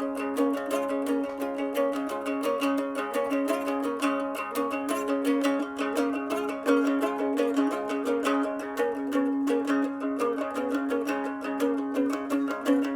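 Donner three-string plucked instrument played in a boogie pattern: a steady droning low note under quickly picked notes in an even rhythm.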